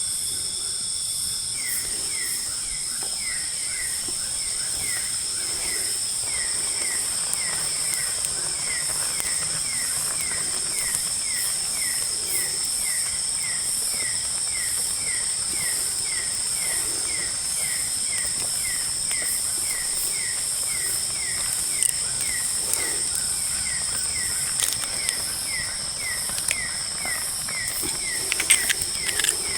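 Night forest ambience: a steady, high-pitched insect chorus, with a short chirping call repeated about twice a second from about two seconds in. A few sharp clicks come near the end.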